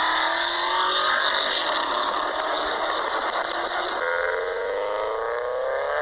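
Audi C5-generation car engine and exhaust accelerating hard. The engine note rises steadily in pitch, jumps near the middle, then climbs again.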